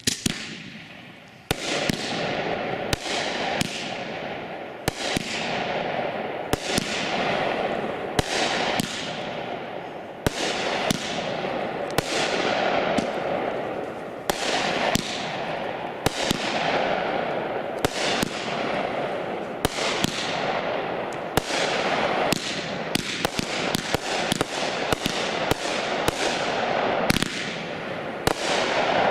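Shogun consumer fireworks cake firing a long string of shots. There is a sharp report about every second, each trailing off in a fading hiss, and the shots come closer together toward the end.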